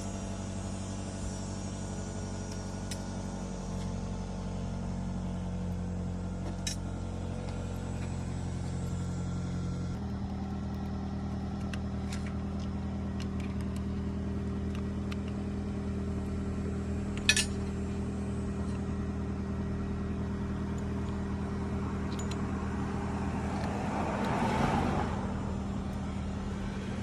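A steady low mechanical hum from a running motor, which shifts slightly about ten seconds in. There is a single sharp click about seventeen seconds in and a brief rustle near the end.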